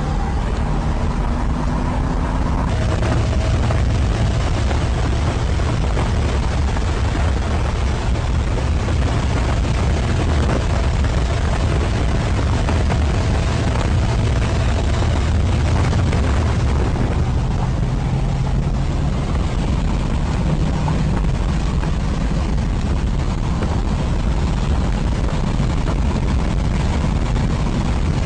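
Loud, steady roar of a vehicle at high speed during a street race: mostly rushing wind noise, with the faint drone of an engine underneath.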